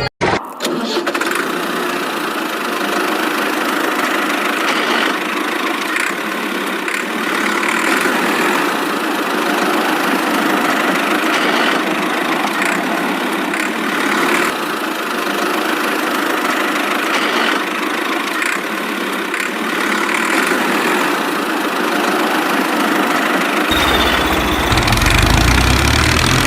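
Steady engine-like running noise, with a deeper low rumble joining in near the end.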